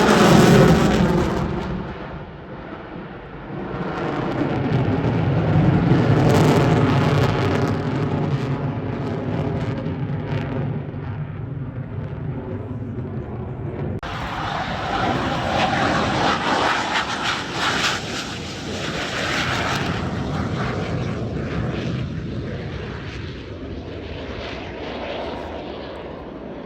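Aircraft engines during a display flypast. In the first second or so a loud pass falls in pitch as the aircraft goes by, followed by a steady engine drone. The sound changes abruptly partway through.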